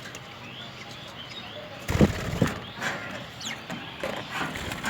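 Budgerigars chirping in short, faint calls, with a couple of louder sudden sounds of wings flapping about two seconds in.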